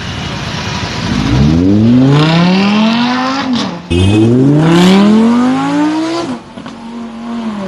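Sports car engine accelerating hard, its revs climbing through one gear, a quick upshift just before four seconds in, then climbing again through the next gear before it backs off near the end.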